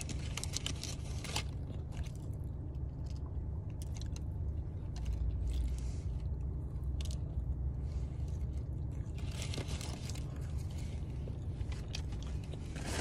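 Close-up eating sounds of a person biting into and chewing a chicken biscuit spread with grape jelly: small wet clicks and smacks, busiest in the first second or so and again near the end. A steady low rumble runs underneath.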